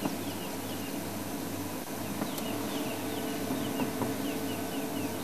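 Wild bird calls: a steady series of short, quick falling chirps, about two or three a second, over a continuous low hum.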